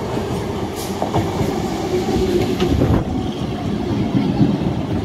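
Electric multiple unit (EMU) suburban local train approaching and running past the platform, its wheels clattering over the rail joints, growing louder as it draws alongside.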